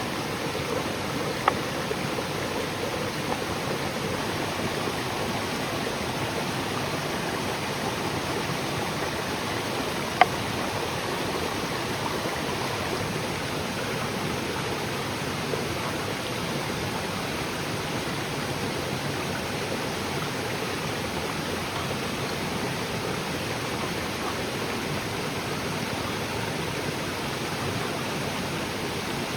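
Steady rushing noise with a few sharp snaps, two standing out: one about a second and a half in and a louder one about ten seconds in.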